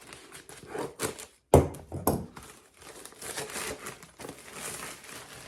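A packaging bag being pulled open by hand, rustling and tearing, with a sharp crack about a second and a half in.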